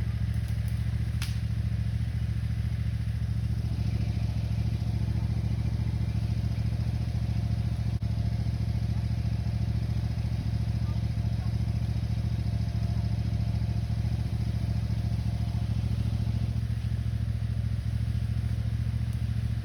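Cub Cadet lawn tractor engine running steadily at an even speed.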